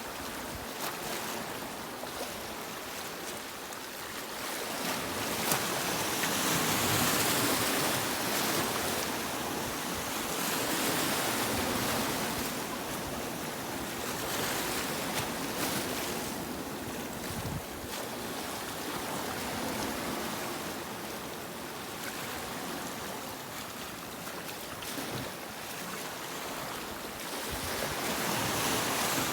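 Sea waves breaking and washing on a beach, a steady rush of surf that swells and eases slowly.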